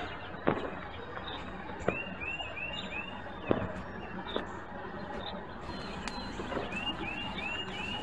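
A songbird singing a phrase of four quick arched notes, twice, over steady outdoor background noise, with several sharp knocks in between.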